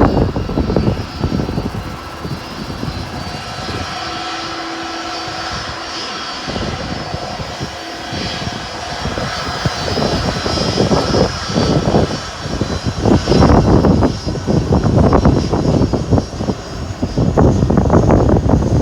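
Jet airliner engines during a departure: a steady high whine, then a louder, rough rumble that builds from about ten seconds in as takeoff thrust comes on.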